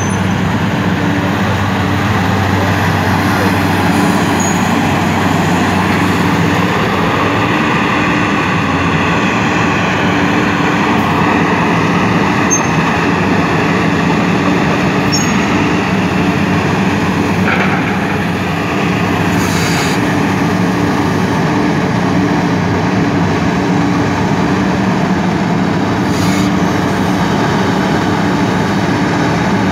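MST M300 excavator's diesel engine and machinery running steadily, with a continuous low hum.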